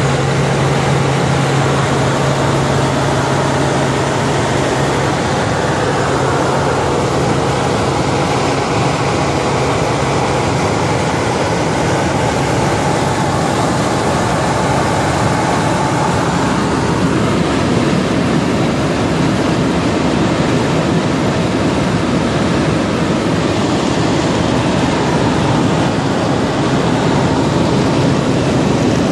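Helicopter in flight: a loud, steady drone of turbine and rotor with a low hum underneath.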